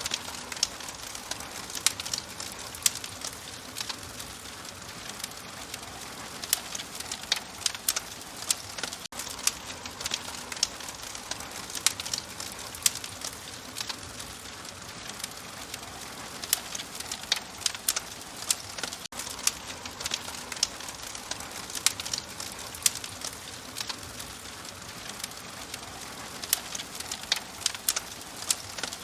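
Wood fire crackling in a fireplace: a steady soft hiss broken by frequent, irregular sharp pops and snaps.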